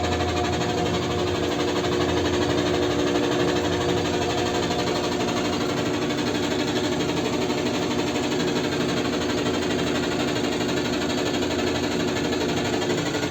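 Washing machine spinning with a steady, loud mechanical drone and a dense rattling buzz.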